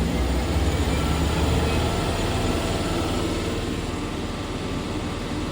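Main spindle of a Leadwell LTC-20BM CNC turning center running steadily at about 1500 RPM during a spindle test, a continuous mechanical whir with a low hum.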